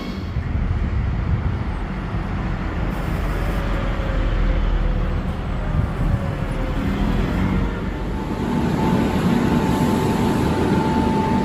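Steady rumble of a moving vehicle or traffic. A faint whine falls slowly around the middle, and another faint steady whine comes in about two-thirds of the way through.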